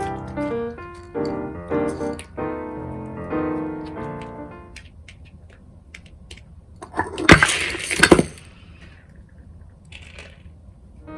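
Piano background music for the first few seconds. After it stops, a dog's food bowl clatters about with small clicks, then two loud clattering crashes about a second apart, some seven seconds in, as the bowl is knocked over.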